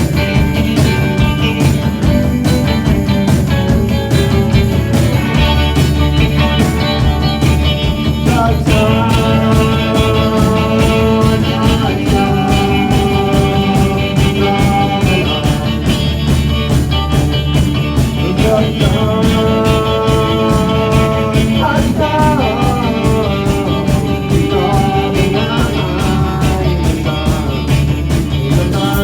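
Live rock band playing: drums, bass and electric guitars at full volume, with long held lead notes that come in twice and bend in pitch.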